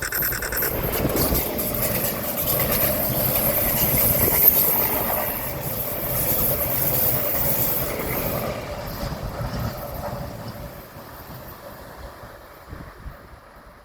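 A train passing by, its rushing noise building over the first few seconds and then fading away. A short high tone sounds right at the start.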